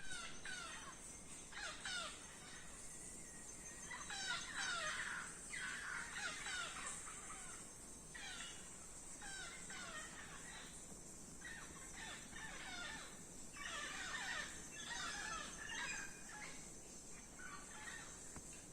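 Birds calling again and again in clusters of short, falling chirps, faint, over a steady high-pitched hiss.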